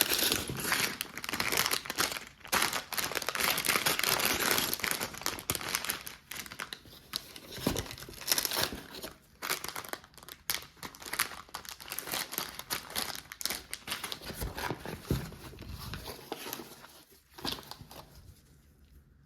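LEGO set packaging crinkling and tearing as it is handled and opened, in dense irregular bursts that die away near the end.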